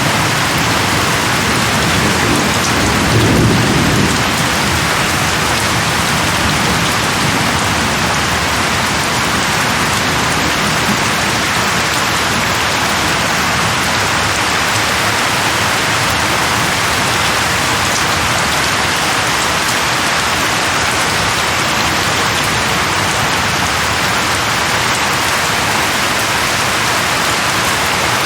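Steady heavy rain from a rainstorm, with a low roll of thunder about three seconds in.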